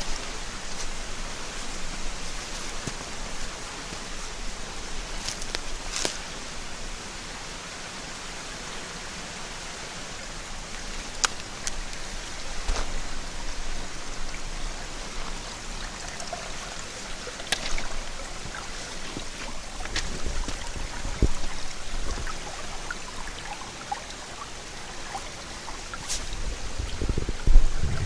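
Mountain headwater stream babbling steadily over rocks, with scattered sharp ticks of drips and small splashes. A few low bumps come in near the end.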